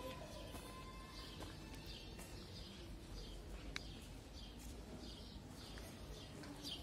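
Small birds chirping repeatedly in short, high, downward-sweeping notes over a faint steady hum, with one sharp click a little past the middle.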